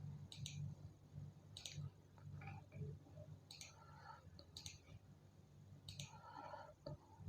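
Faint computer mouse clicks, about six of them spread out at irregular intervals, over a steady low hum.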